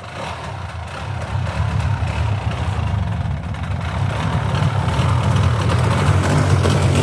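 Polaris Sportsman 400's liquid-cooled two-stroke engine running just after being started, growing steadily louder.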